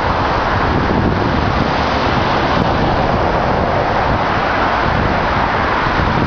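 Steady running noise of large excavators, with wind buffeting the microphone.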